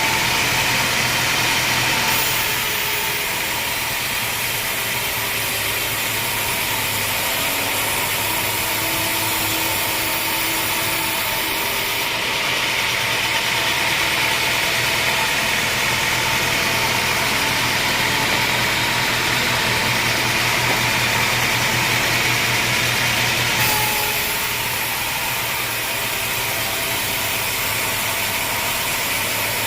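Engine-driven sawmill running steadily, its engine under a constant load. The higher part of the noise changes a few times, about 2, 12 and 24 seconds in.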